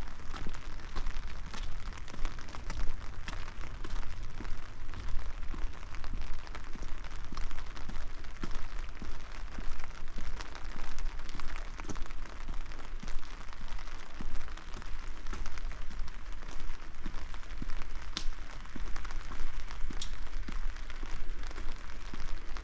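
Steady rain falling, a dense patter of drops striking surfaces, over a low steady rumble.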